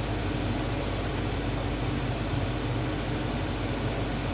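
Steady mechanical hum with an even hiss, like a fan motor running.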